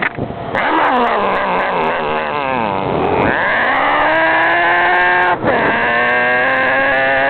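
A man's voice imitating a motorbike engine, revving in rising and falling pitch with two short breaks, like shifts through the gears, to give a quiet scooter an aggressive sound.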